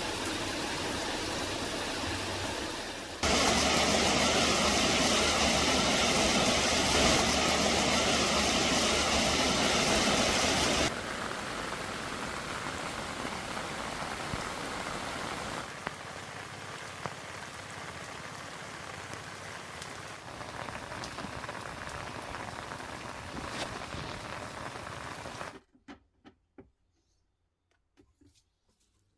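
Heavy rain falling, a steady hiss of downpour that jumps louder about three seconds in, drops back after several seconds, and cuts off abruptly shortly before the end, leaving a few faint ticks.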